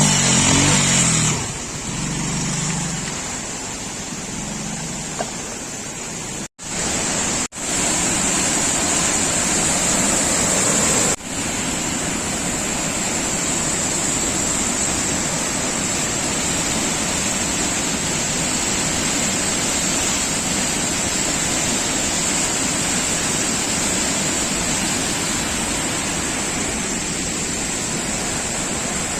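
Steady rushing noise of heavy monsoon rain, cut off briefly twice around a third of the way in and dipping once more shortly after.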